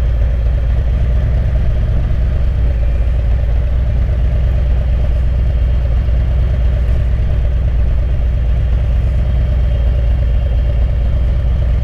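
Harley-Davidson Street Glide's V-twin engine idling steadily, a low even rumble.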